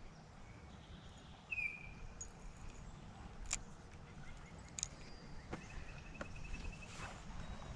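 Faint open-air creek ambience with a steady low rumble. A bird gives a short falling high call about a second and a half in, and a fast run of high, evenly spaced notes follows later, with a few sharp clicks in between.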